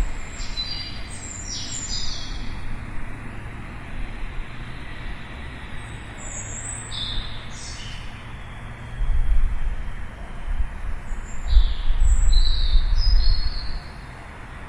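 Small birds chirping in three short bursts of quick, high, falling notes, over a steady low rumble that swells and becomes the loudest sound for several seconds in the second half.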